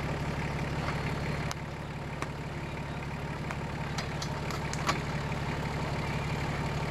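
Off-road 4x4's engine idling steadily close by, with a few light clicks over it.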